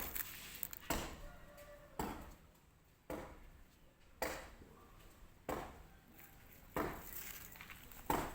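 A series of sharp taps or knocks, about one a second and eight in all, each fading quickly.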